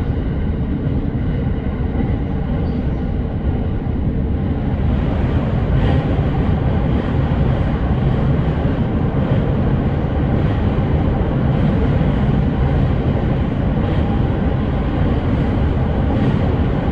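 Electric commuter train running between stations, heard from inside the carriage: a steady rumble of wheels on rail, with a faint whine in the first few seconds that fades out about four seconds in, and occasional faint knocks.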